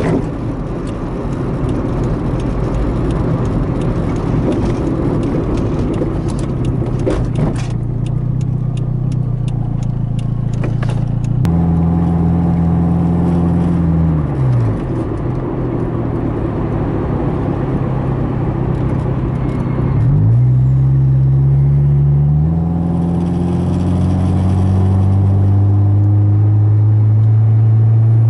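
Toyota MR2 (SW21) engine and road noise heard from inside the cabin while driving, the engine note mostly steady. There is a run of sharp clicks and knocks for a few seconds early on. The engine pitch dips and climbs back about twenty seconds in, and it gets louder as the car accelerates near the end.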